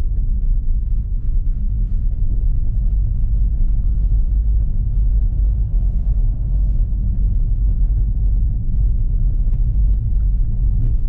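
BMW M5 Competition's 4.4-litre twin-turbo V8 and road noise while driving at a steady pace: a steady low rumble with no revving.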